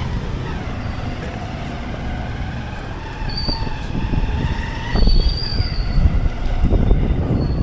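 Motorcycle engine running under way, with its pitch gliding up and down, over a low rumble. A short high-pitched squeal comes about three seconds in and a longer one about five seconds in.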